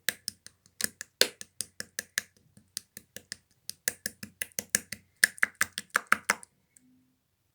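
Translucent slime being played with by hand, giving a quick run of sharp, crisp clicks and pops, about four or five a second, that stop suddenly about six and a half seconds in.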